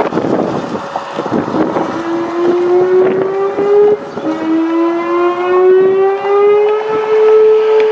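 Vehicle engine accelerating hard, its pitch climbing steadily, dropping sharply about four seconds in as it shifts up a gear, then climbing again. Wind rushing over the microphone at the start.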